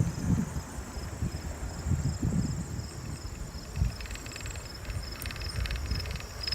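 Crickets and other insects chirping steadily, with evenly repeated high chirps and bouts of rapid trilling, over a low, uneven rumble of wind on the microphone.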